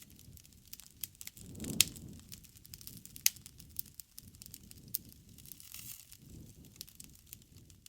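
Wood campfire crackling with many sharp pops, the loudest about two seconds in and another about three seconds in, over a low rush of flame.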